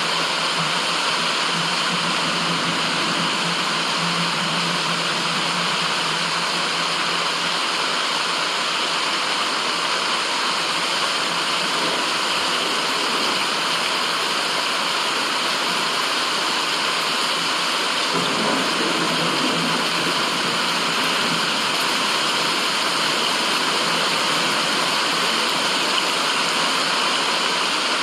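Running water rushing steadily, a continuous even hiss played as white noise.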